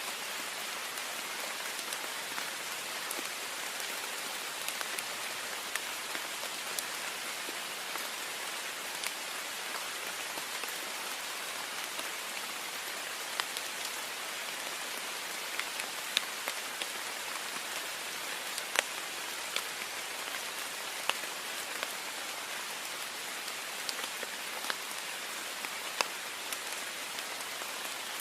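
Heavy rain, a steady hiss with frequent sharp drop ticks, a few of them louder, on a window.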